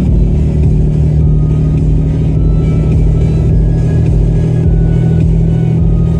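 Chevrolet Tahoe on the move: a steady low drone of engine and road noise.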